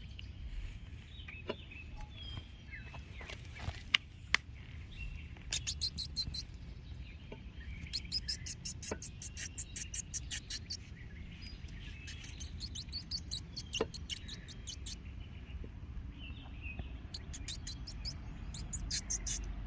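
Bird trapped inside a chimney giving runs of very fast, very high-pitched chittering, five runs of one to three seconds each, with a few faint knocks in the first seconds.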